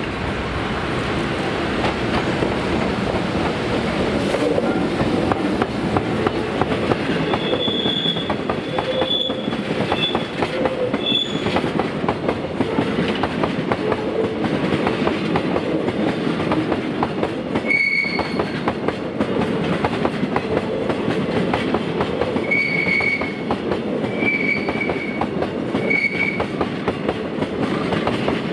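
Freight train of Taki tank wagons for gasoline, hauled by an EF210 electric locomotive, rolling past close by. The wheels clack steadily over the rail joints, and short high wheel squeals come and go repeatedly from about eight seconds in.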